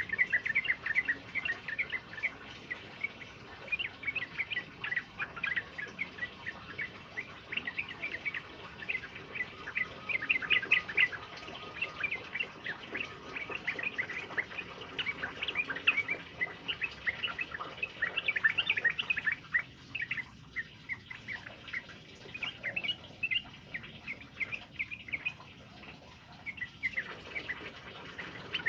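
A male Javan jog-jog sings long, rapid runs of bright chirping phrases over a steady background hiss. The singing thins out to sparser calls for a stretch about two-thirds of the way through, then picks up again near the end.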